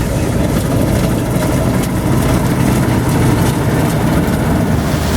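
Heavy diesel engine of farm harvest machinery running steadily with a deep, even rumble.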